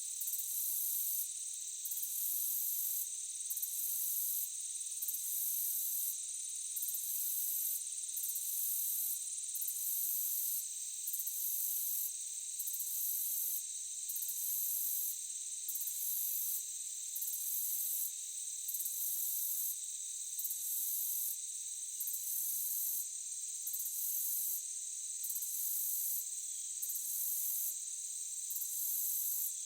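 Insect chorus of crickets or similar singing insects: a steady high-pitched drone, over which a very high trill switches on and off in regular pulses about a second long, roughly one every second and a half.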